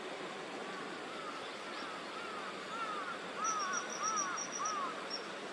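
Steady rush of water pouring over a low river weir, with bird calls over it: a series of short arched chirps from about two seconds in, joined near the middle by a quick string of high, thin notes.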